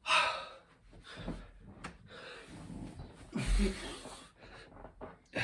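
A man breathing hard between two-pump burpees: heavy exhales and gasps, with a thump about three and a half seconds in.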